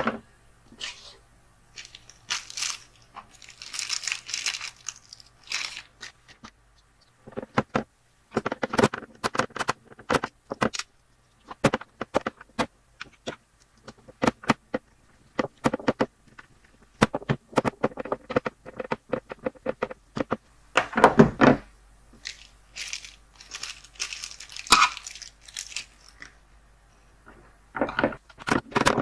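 Handling noise from the plastic drone body and landing skids: irregular sharp clicks, taps and knocks, with a few stretches of rustling.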